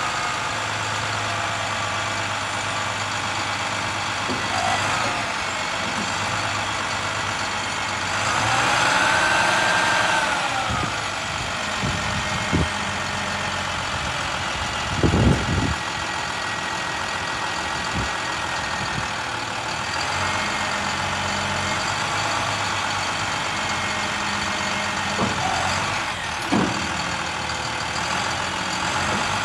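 Utility truck's MaxxForce DT diesel engine running steadily. About nine seconds in it speeds up briefly and settles back, and there are a few short clunks later on.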